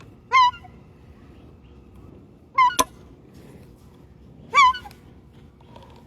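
A gull giving short, honking calls three times, about two seconds apart, with a single sharp click near the middle.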